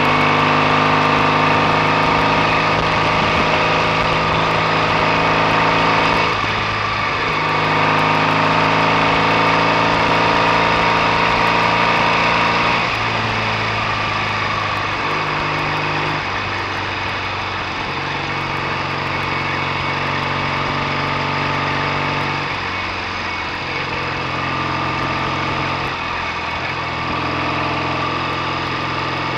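BSA A65 650 cc parallel-twin motorcycle engine running on the road, its note breaking and shifting in pitch about five times as the throttle is shut and opened again.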